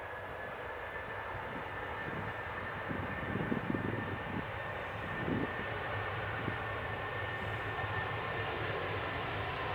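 Boeing 787 jet engines running at taxi power: a steady, high whine over a hiss and a low rumble.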